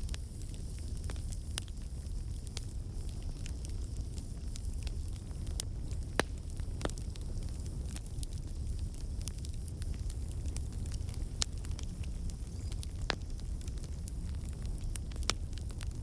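Wood campfire crackling: irregular sharp pops from the burning logs, about one every second or two, over a steady low rumble of the flames.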